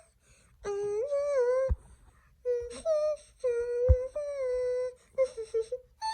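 A voice making a series of long, held, slightly wavering notes, about a second each with short breaks between them, and two sharp knocks in the middle.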